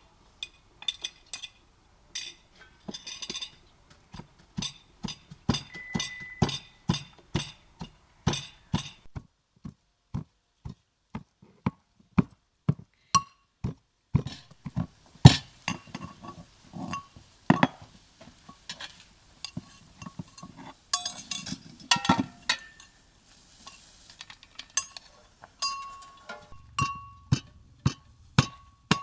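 Kitchenware clinking and tapping: many irregular sharp clinks of utensils against bowls and dishes, a few a second, some ringing briefly.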